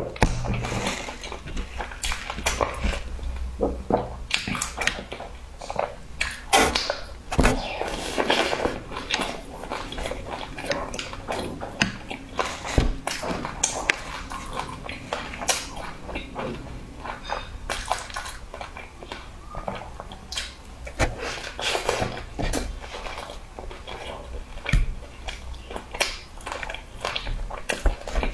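Close-miked eating sounds: a person chewing a cheese-filled bun topped with crunchy meat floss and seaweed, with irregular clicks and crunches of chewing and handling the food.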